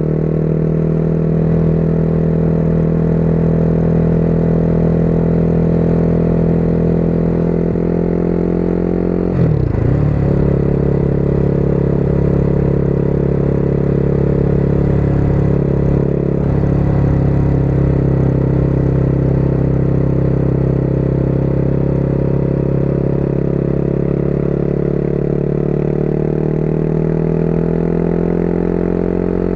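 Motorcycle engine running steadily at road speed from the rider's point of view. The engine note breaks and shifts sharply about nine seconds in, changes again more gently around sixteen seconds, and eases slightly lower near the end.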